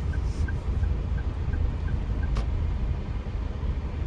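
Car cabin with the steady low rumble of the engine and road. Over it a turn-signal indicator ticks about three times a second, then stops with a sharper click a little over two seconds in.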